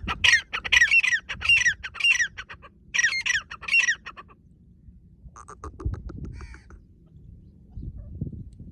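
Female grey francolin (white partridge) calling loudly: a quick run of about eight calls in the first four seconds, then a few fainter calls a second or so later.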